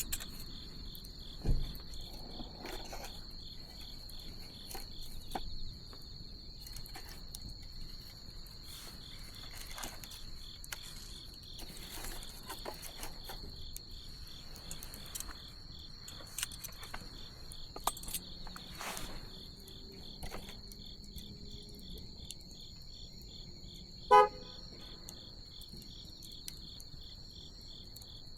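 Wood bonfire crackling and popping over a steady, pulsing high trill of night insects. A low thump comes about a second and a half in, and a brief pitched squeak, the loudest sound, near the end.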